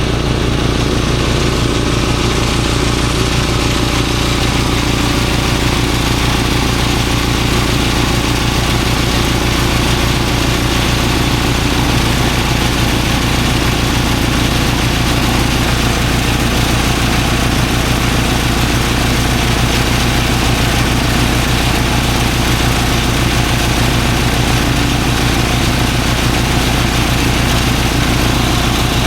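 Engine-driven rice threshing machine running steadily, a continuous loud mechanical drone without pause.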